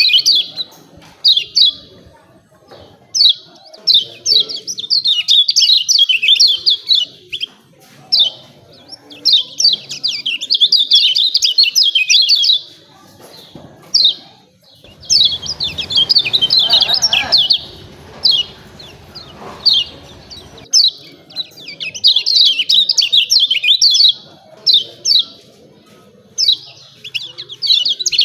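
Kecial kuning (a white-eye) giving its rapid, high ciak-ciak chirping in bouts of a second or two, broken by short pauses and single chirps. A duller low noise runs underneath for several seconds in the middle.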